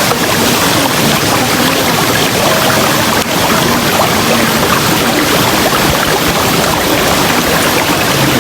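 River water flowing, a steady, even rush with no break.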